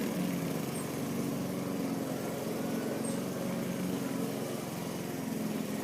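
Small dirt bike engine running steadily at a low, even speed.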